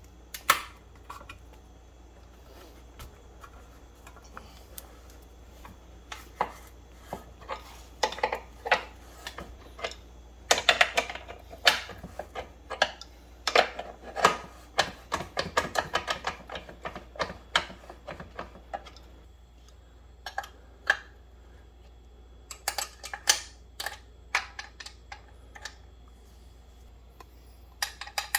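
Irregular metallic clicks and clinks of hand tools working on the motorcycle's axle and chain adjusters. They come in scattered single strikes, with a dense run of quick clicks through the middle.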